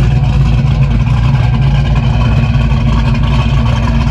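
Hot rod's supercharged engine running with a loud, steady low rumble that does not rev up or down.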